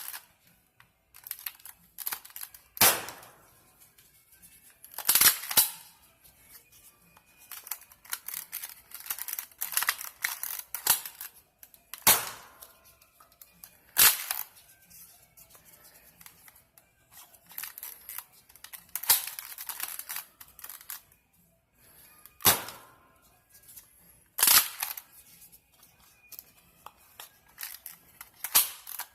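Spring-powered Nerf dart blaster being primed and fired several times, about seven sharp snaps spread out with plastic clacking and rattling of the priming in between.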